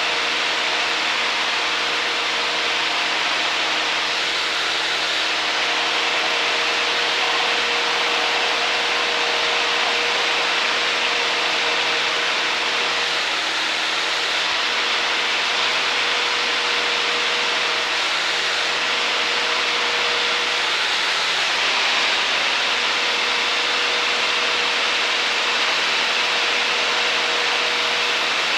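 Steady cabin drone of a Cessna 152 in flight: its four-cylinder engine and propeller running at an even power setting under a constant rush of wind noise.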